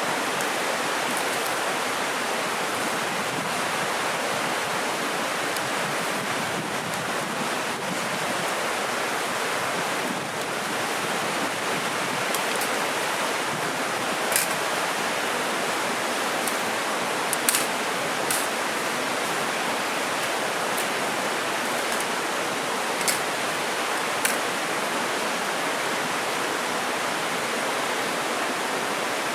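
Mountain stream of the Dōshi River rushing steadily, an even hiss of running water. A few sharp clicks stand out over it in the second half.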